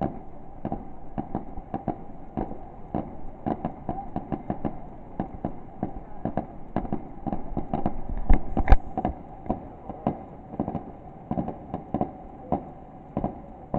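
Fireworks going off in a rapid, irregular string of sharp bangs, several a second, with two heavier booms about eight and a half seconds in.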